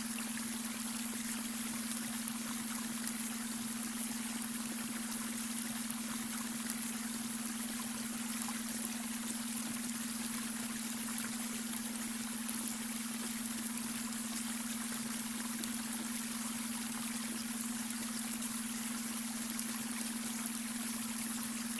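Babbling brook running steadily, with a constant low hum-like tone, the beta-wave brainwave tone, held unchanging beneath the water.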